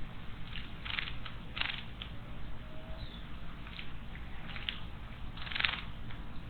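Wild birds at a garden stone water basin: a scatter of short, sharp sounds, about nine in six seconds, the strongest near the end.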